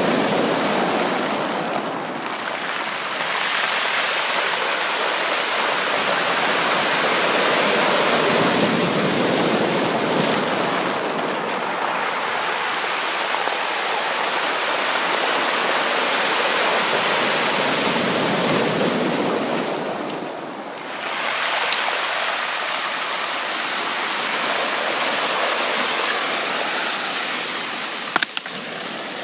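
Ocean waves washing onto a beach, a continuous rush of surf that swells and falls back about every nine seconds. A few sharp clicks come near the end.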